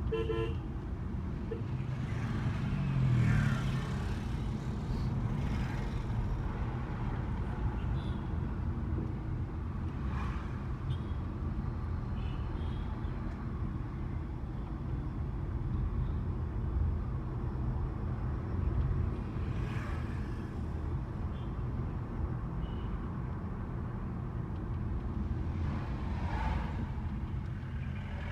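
Car driving along a road: a steady low rumble of tyres and road noise, with no engine note, and a few brief louder swells.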